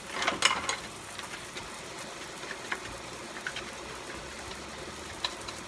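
Kitchen tap running steadily into a sink while a small scrub brush scrubs the sink with bar soap, giving scattered scratchy strokes, the loudest cluster about half a second in.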